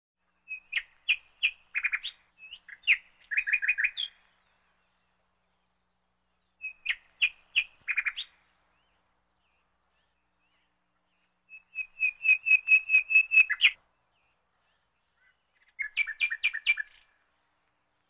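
A bird calling in four phrases of quick, sharp repeated notes, with pauses of two to three seconds between them; the third phrase, about twelve seconds in, is the longest, an even run of about a dozen notes.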